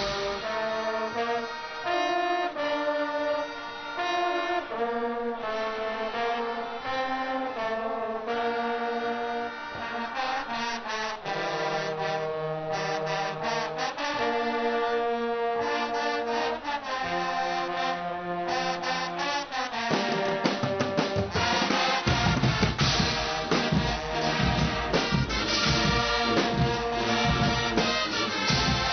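Guggenmusik carnival band playing a brass melody on trumpets and trombones. Drums and percussion come in heavily about two-thirds of the way through, and the playing grows louder.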